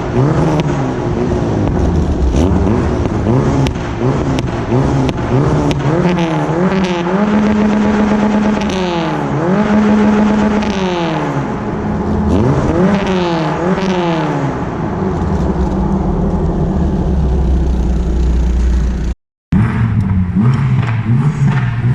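Citroën Saxo VTS's four-cylinder petrol engine running and revving, its pitch rising and falling several times through the middle, cut off to silence for a moment near the end.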